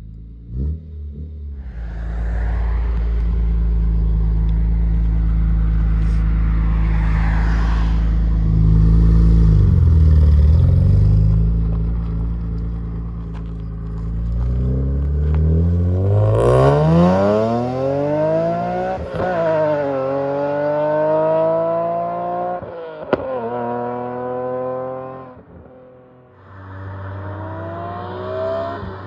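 BMW E46 M3's S54 straight-six through aftermarket headers and exhaust: a long stretch of steady, deep drone at constant engine speed, then a hard pull about halfway through with the pitch climbing, two upshifts dropping it, and a lift-off before settling back to a steady cruise near the end.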